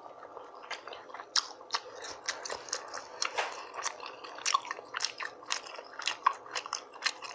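A person chewing and biting food with the mouth open, a steady run of wet smacking clicks and small crunches.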